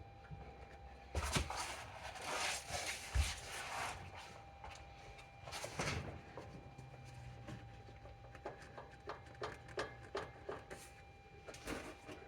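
Clunking from the passenger side of a Nissan Xterra: a series of knocks, with a heavy low thump about three seconds in and quicker, lighter clicks and knocks in the later part.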